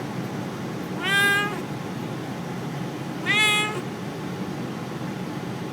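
Siamese kitten meowing twice, two drawn-out meows about two seconds apart, each rising slightly and then holding its pitch, over the steady hum of a moving car's cabin.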